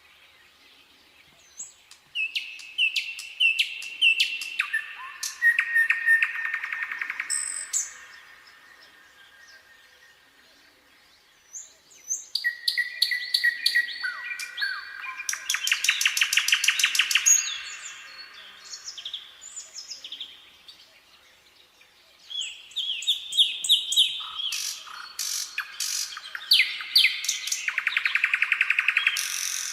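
A nightingale singing three song phrases separated by pauses of a few seconds. Each phrase is built of rapid repeated notes and fast trills.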